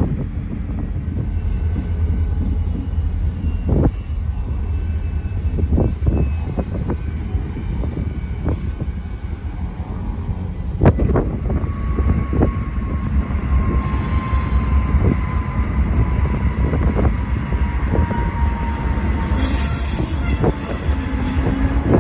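Union Pacific diesel freight locomotives rumbling past, with occasional clanks of wheels and couplers. In the second half a thin squeal slowly drops in pitch.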